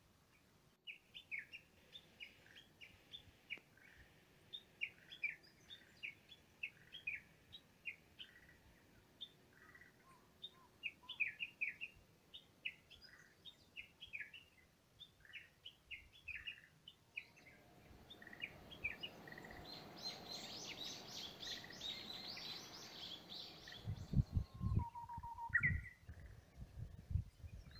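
Wild birds chirping in short, repeated calls. Later comes a rising hiss with rapid ticking, and near the end a few low thumps.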